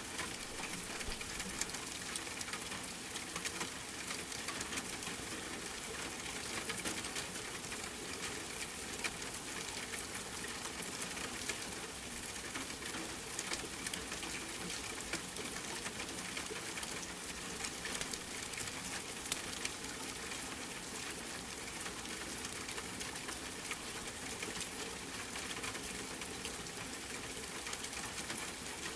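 Steady rain with a crackling fire: an even hiss with frequent small, sharp crackles.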